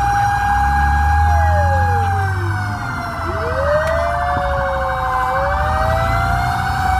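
Fire engine sirens sounding together: a steady high tone with a fast warble over it, and a wailing siren that slides down in pitch, climbs back and falls again. A truck engine rumbles low underneath, strongest in the first few seconds.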